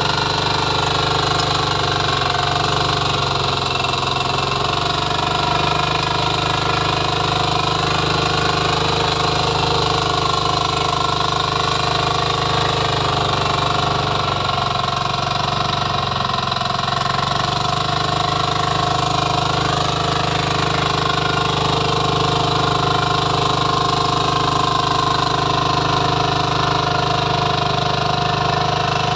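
Power weeder's engine running steadily at an even speed.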